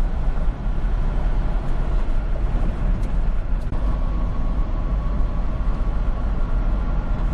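Steady low rumble of a semi-truck's engine and road noise heard inside the cab while driving at highway speed.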